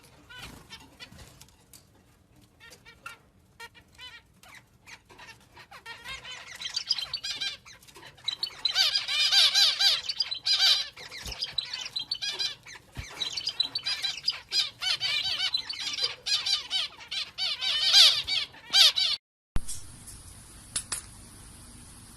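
A bird squawking and chattering in rapid, rising and falling calls. At first there are only scattered faint calls and clicks, then a long dense stretch of loud squawks. Near the end it cuts off abruptly, leaving a faint steady hiss.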